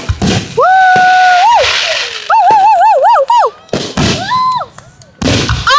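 Fireworks going off with loud bangs, near the start and again just before the end. Between them a high voice whoops in long wordless "woo" calls: one held note, then a fast wavering run, then a string of falling swoops.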